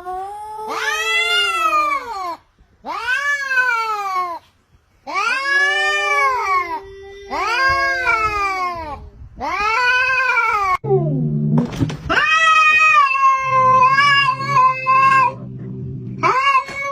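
Cats fighting: a cat gives a string of loud, drawn-out yowls that rise and fall in pitch, about one every two seconds. Roughly two-thirds of the way in, a low growl starts under a long, wavering yowl, and a short yowl comes near the end.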